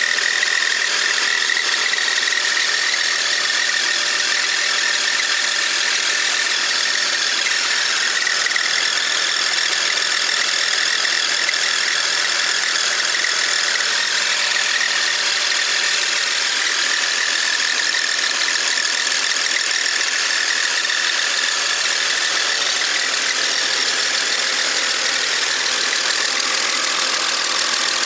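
2001 BMW X5 engine running steadily with a rapid, even ticking and a steady high-pitched whine over it. The owner cannot place the ticking and asks whether it is valves, lifters, bearings, rod knock or loose spark plugs.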